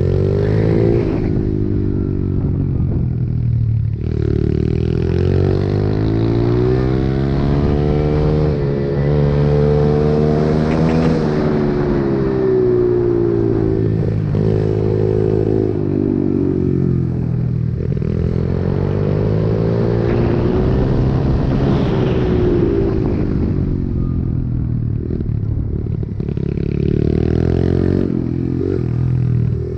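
Pit bike's small single-cylinder engine being ridden hard, revving up and falling back again and again as the rider works the throttle and gears.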